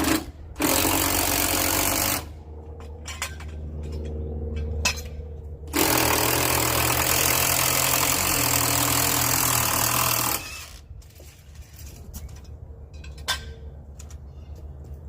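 MIG welder arc crackling while a patch is welded onto a rusted exhaust pipe: one burst of about a second and a half near the start, then a longer run of about four and a half seconds in the middle, with a few short clicks between and after. A steady low hum runs underneath.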